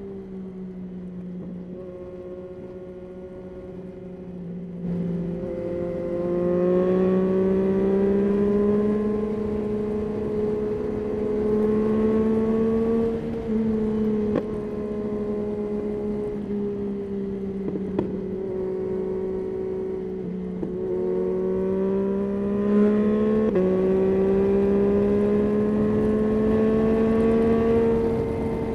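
Yamaha Tracer 9's 890 cc inline three-cylinder engine running under way. Its pitch rises and falls slowly with speed, with several sudden steps up or down where gears are changed.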